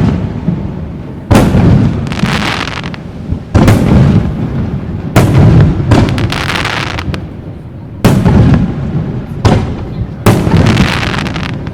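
Aerial fireworks shells bursting overhead: about six sharp booms a second or two apart, each dying away slowly, several followed by a crackling fizz of glittering stars.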